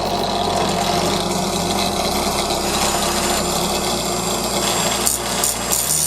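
A power tool running steadily while grinding or shaping the high-speed steel bar for a homemade gouge, a constant rushing noise with a thin high whine over it.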